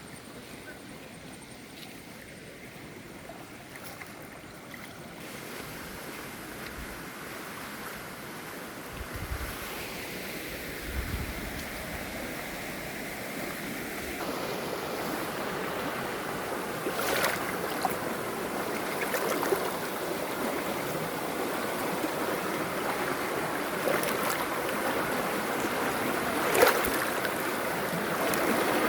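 Steady rush of falling water from a waterfall, growing steadily louder, with a few short knocks in the second half.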